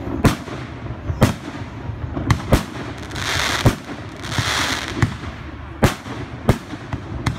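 Fireworks display: about eight sharp bangs of aerial fireworks going off at irregular intervals, with two half-second hisses in the middle.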